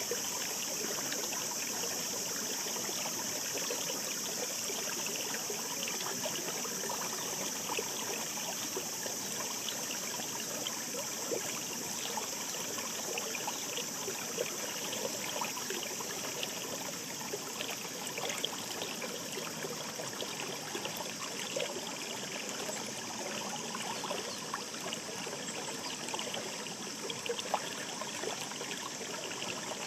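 Shallow mountain stream babbling steadily over rocks, with a continuous rush and many small splashes and trickles.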